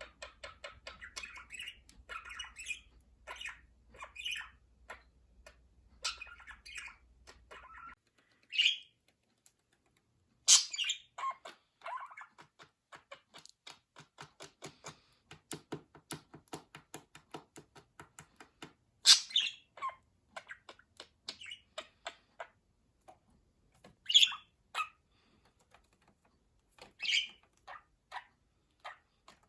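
Budgerigars chirping and warbling in a steady stream of short notes, broken by a few louder sharp calls.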